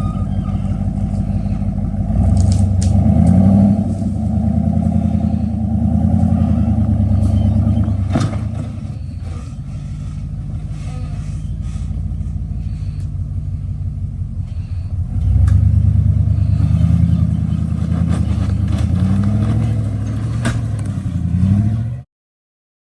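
Off-road vehicle engine running at low speed while rock crawling, revving up briefly about two seconds in and again for several seconds past the middle, with a few sharp knocks. The sound cuts off abruptly near the end.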